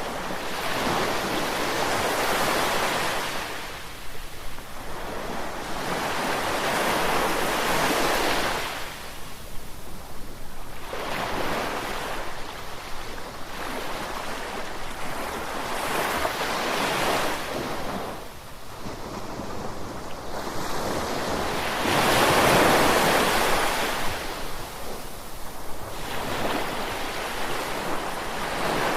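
Ocean waves breaking and washing on a shore, rising and falling every four or five seconds, with the loudest wave about three-quarters of the way through.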